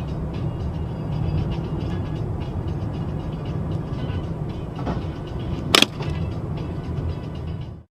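Steady low rumble of a car's engine and road noise picked up by a dash camera inside the car, with one sharp click about six seconds in. The sound cuts off suddenly near the end.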